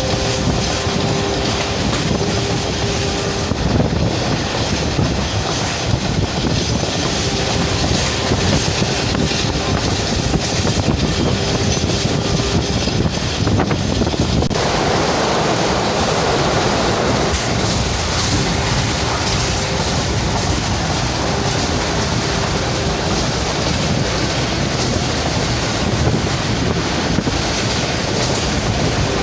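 Passenger train running at speed, heard from inside a coach: a steady rumble and clatter of the wheels on the track, with a faint steady hum that comes and goes.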